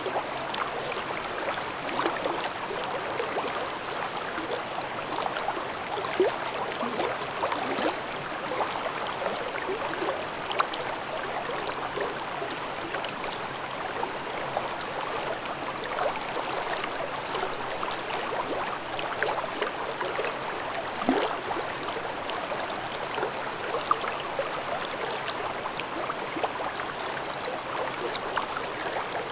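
Mountain stream babbling over rocks in a gorge: a steady rush of water with constant small gurgles and splashes, and a few louder plops here and there.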